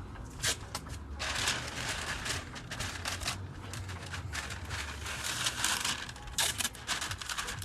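Irregular rustling and crinkling with many scattered clicks and taps.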